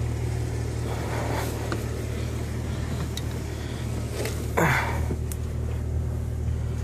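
1999 Jeep Wrangler engine idling with a steady low hum. About four and a half seconds in, a brief sound slides quickly down in pitch.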